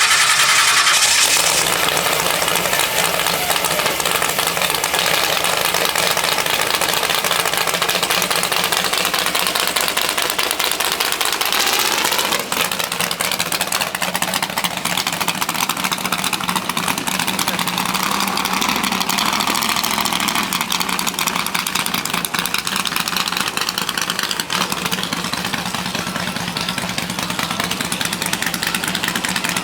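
A car engine running loudly and without pause, its pitch sliding up and down now and then.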